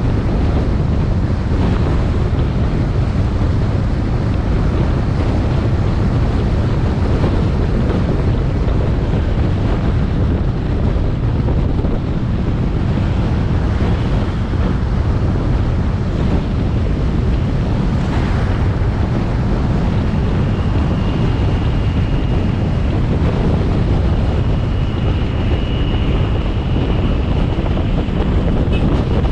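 Heavy wind buffeting on an action camera's microphone during a motorbike ride, over the motorbike's engine and road noise, steady throughout. A faint, high, steady whine joins about two-thirds of the way in.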